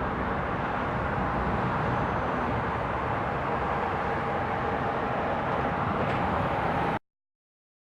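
Steady jet engine and airport noise with a faint steady tone, cutting off abruptly about seven seconds in.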